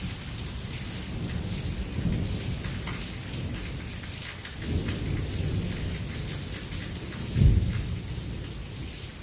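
Heavy rain hissing steadily while thunder rolls, rumbling twice and then a louder, sharper clap about seven and a half seconds in.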